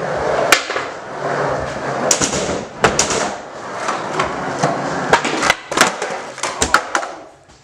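Skateboard wheels rolling across a basement floor, broken by a series of sharp clacks as the board is popped, hits the floor and lands, several of them close together in the second half.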